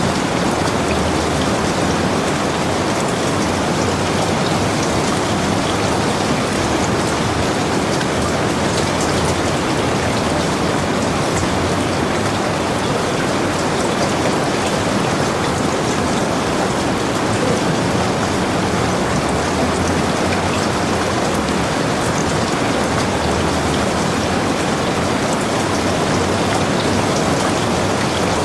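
Heavy rain falling steadily, an even wash with scattered drop patters on surfaces.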